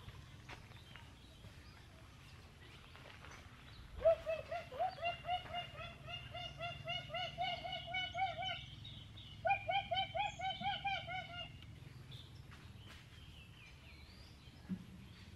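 A bird calling: a long run of quick, rising notes, about four a second. After a short pause a second, shorter run follows.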